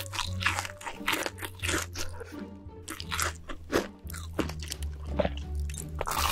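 Close-miked crunching and chewing of crisp food, many irregular bites and chews, over background music with steady low notes.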